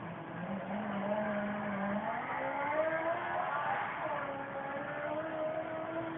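Off-road vehicle engine running under throttle. Its pitch holds steady for a moment, then climbs, drops back about four seconds in and climbs again.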